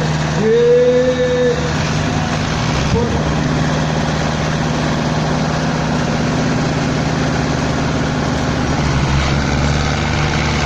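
Diesel tractor engine of an HMT 5911 running steadily and hard under heavy load while pulling in a tractor tug-of-war. A short shout from a voice comes about half a second in.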